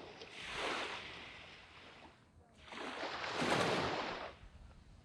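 Surf washing onto a sandy beach: two waves break and rush up the sand, the second, about three seconds in, louder and longer than the first.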